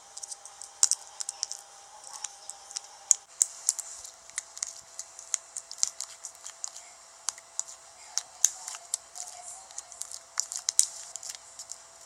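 Sticky slime being kneaded and stretched by hand, making irregular sharp clicks and pops, several a second, as slime activator is worked in.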